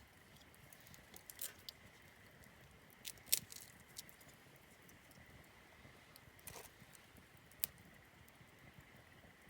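Wood campfire crackling: scattered sharp pops and snaps at irregular intervals, the loudest about a third of the way in, over a faint steady background.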